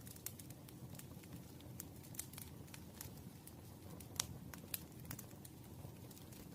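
Campfire burning, with irregular sharp crackles and pops of the wood over a low, steady rumble of the flames; one louder pop about four seconds in.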